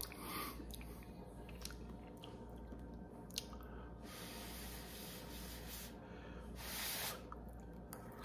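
A person chewing a mouthful of soft chicken and rice, with wet mouth noises and a single sharp click about three and a half seconds in.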